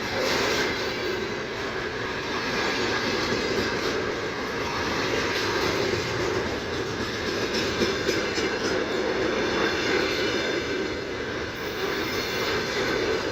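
Freight train rolling past at steady speed: a continuous rumble of wagon wheels on the rails, with faint rhythmic clicks over the rail joints.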